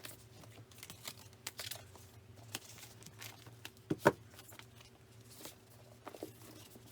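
Faint scratching, rustling and light clicks of small objects being handled, over a low steady hum, with a sharper pair of clicks about four seconds in.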